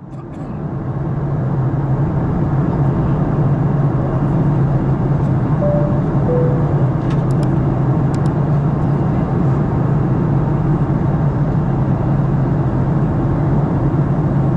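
Steady cabin drone of a Boeing 737-900 in flight, engine and airflow noise with a low hum, heard inside the cabin from a window seat; it fades in over the first second or so. About six seconds in, a brief two-note chime, high then low, sounds over the drone.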